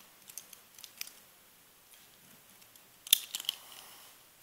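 Small hard plastic Beyblade parts clicking as they are handled and fitted together. A few light ticks come in the first second, then a quick cluster of sharper, louder clicks about three seconds in.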